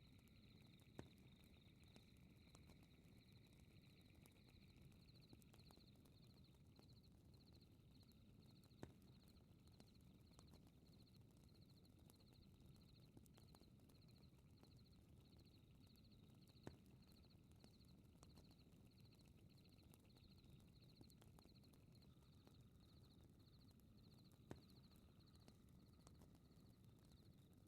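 Faint night ambience: crickets chirping steadily, about three chirps every two seconds, over the low rumble of a fireplace fire, with four sharp crackling pops about eight seconds apart.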